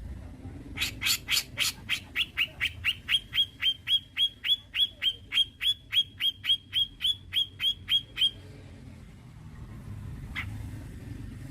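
Cucak jenggot (grey-cheeked bulbul) calling a rapid, even run of about thirty identical sharp notes, about four a second, for some seven seconds, then stopping. One lone short note follows near the end.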